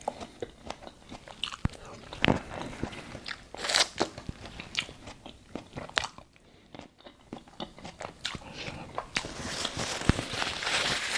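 Close-miked eating sounds: a person biting and chewing grapes, with irregular wet crunches and clicks. A denser rubbing noise builds near the end.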